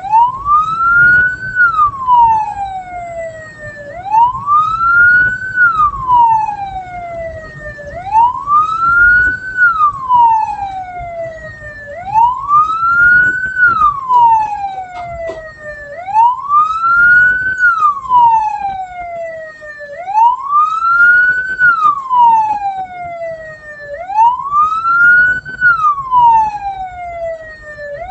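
Vehicle siren wailing in a slow rise-and-fall cycle, about once every four seconds. It sweeps up quickly and glides down more slowly, over a low rumble of vehicle engine and road noise.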